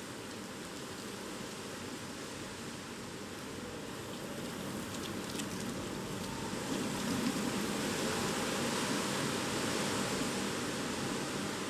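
Typhoon wind and rain: a steady rushing noise that grows louder about halfway through and stays up.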